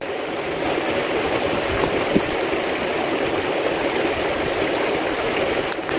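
Steady rushing of flowing water, an even hiss that holds level throughout.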